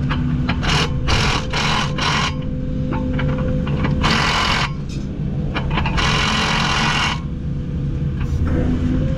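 A diesel engine of heavy equipment running steadily at idle. Over it come a quick series of short harsh mechanical bursts early on, then two longer bursts about four and six seconds in.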